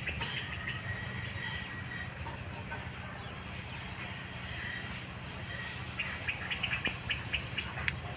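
Birds calling: a thin held note through the first half, then a quick run of short chirps, about eight a second, near the end, over a steady low rumble.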